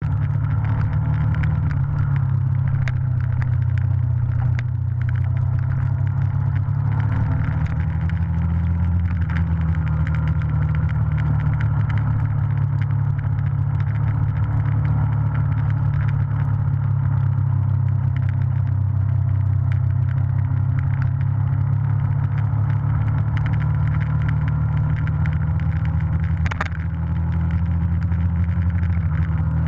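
Motorcycle engine running steadily under way on a rough gravel road, picked up by a camera mounted on the bike, with scattered small rattles and one sharper knock near the end.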